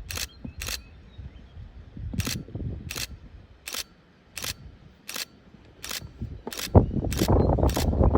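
Camera shutter firing single frames, about eleven sharp clicks spaced a little over half a second apart. A low noise swells up underneath near the end.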